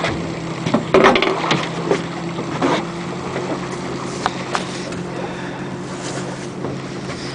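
Boat motor running at a steady low hum, with a few sharp knocks and clatters of gear being handled in the boat during the first few seconds.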